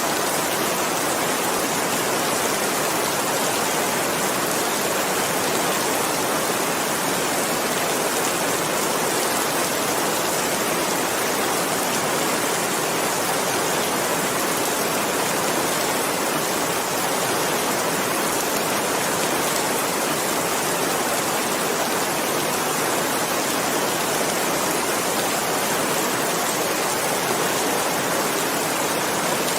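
Steady, dense rainfall: an even hiss of rain with no separate drops or other sounds standing out.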